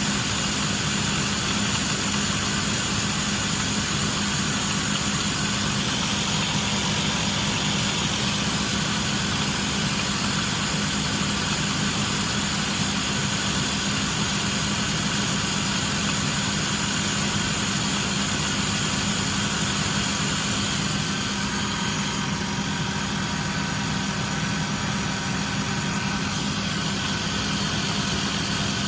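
Car engine idling steadily with a clicking from the engine bay, which the owner suspects is the water pump going out.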